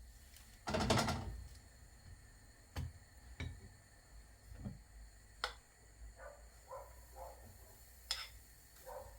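Scattered knocks and clinks of household objects being handled and set down, with a longer, louder clatter about a second in.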